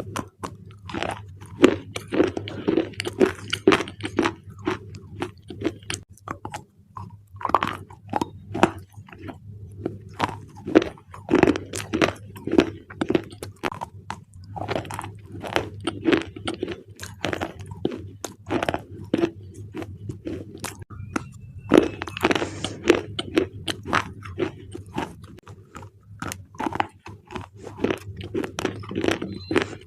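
Close-up crunching and chewing of thick black slate bars (edible clay), with many sharp, irregular cracks several times a second.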